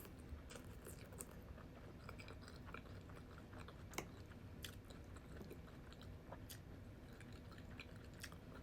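Faint chewing of food, soft wet mouth clicks and smacks at irregular intervals, with a sharper click about four seconds in.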